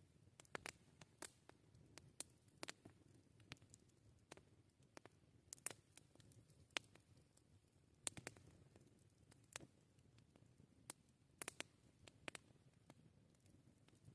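Wood campfire crackling: irregular sharp pops and snaps, some in quick clusters, over a faint low rumble.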